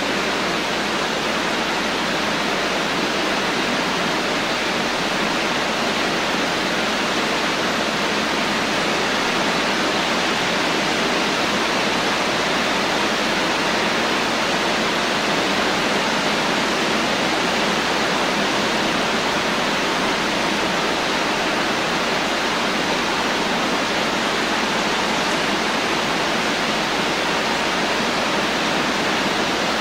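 Steady rain, an even hiss of falling water with no breaks or changes in level.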